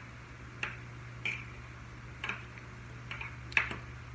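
Utensils clicking and clinking against a dish at irregular intervals, about five sharp knocks, as spaghetti is mixed.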